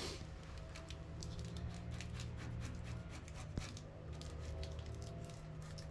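Vinyl decal and its paper transfer layer crinkling and rubbing as the sticker is pressed onto a panel: many small crackles and ticks over a steady low hum.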